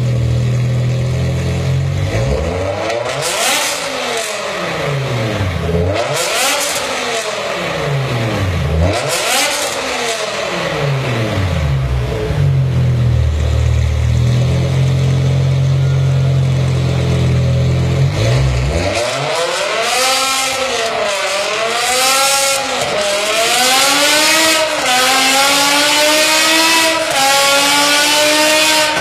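A BMW M5's 5.0-litre V10 engine idling, then revved three times, each rev rising and falling in pitch. It settles back to idle for several seconds, then revs again several times and finishes with a long climb in pitch broken by brief dips.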